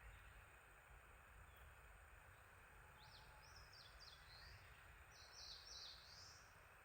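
A small songbird sings two short phrases of quick, high, sliding notes, the first about three seconds in and the second about five seconds in. The song is faint over a steady low outdoor rumble.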